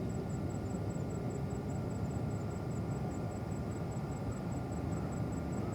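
Steady distant jet aircraft noise at an airport: an even low rumble with a faint steady whine.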